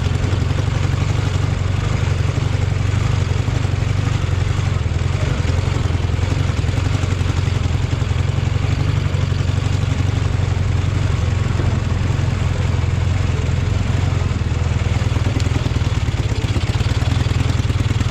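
Engine of an off-road vehicle running steadily and loud at close range, with a strong low hum, as it crawls slowly over rough ground.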